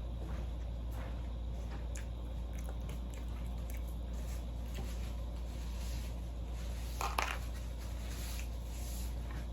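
A person chewing and eating close to the microphone, with small wet clicks and mouth sounds and a louder crackle about seven seconds in, over a steady low hum.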